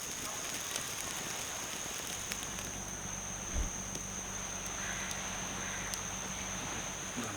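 Campfire crackling in scattered sharp clicks under a steady high-pitched insect drone. A low steady hum comes in about two seconds in and stops just before the end, with a single low thump about halfway.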